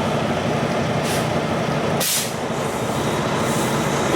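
Semi-truck diesel engine running steadily, with a sharp hiss of released air brake air about two seconds in and a fainter hiss about a second in. This is the tug test, pulling against the trailer to check that the fifth wheel has locked on.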